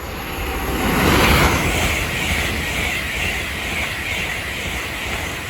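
LNER Class 801 Azuma electric train passing through the station, a loud rushing of wheels and air that swells to a peak about a second in, then carries on steadily before starting to fade near the end.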